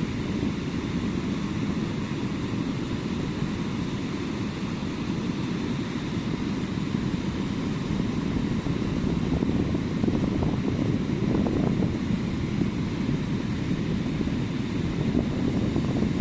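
Sea surf washing steadily onto a sandy beach, with a deep rumble of wind on the microphone; it grows slightly louder in the second half.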